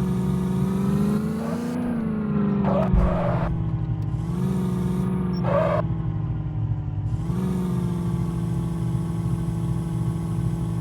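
A motor running steadily with a droning hum that shifts up slightly in pitch a few times, with a couple of brief clattering noises about three and five and a half seconds in.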